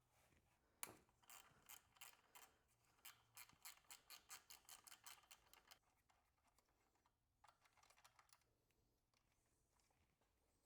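Faint hand ratchet clicking in a quick run of short strokes, about four clicks a second, undoing the nut on an alternator wiring connection; a few more clicks follow later.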